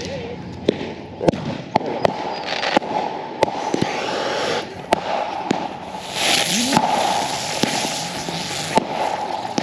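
Fireworks going off: irregular sharp pops and cracks, a dozen or so scattered through, over stretches of hissing.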